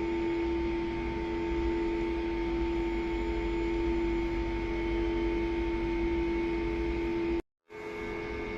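Narrow-gauge electric railcar's equipment giving a steady hum of several unchanging tones over a low rumble, with a brief break about seven and a half seconds in.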